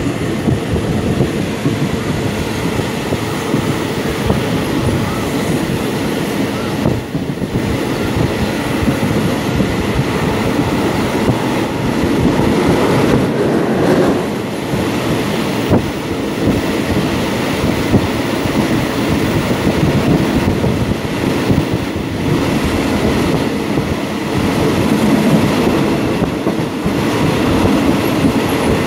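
Thai ordinary passenger train running along the track, heard from on board: a steady, loud noise of wheels and carriages on the rails.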